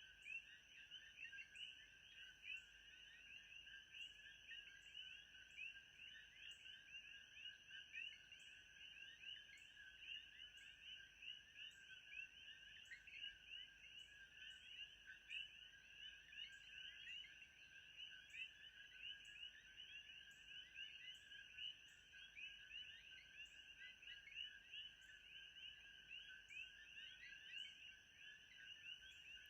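Faint, steady chorus of many overlapping chirping calls, like a night-time frog and insect chorus, with a thin steady high tone above it.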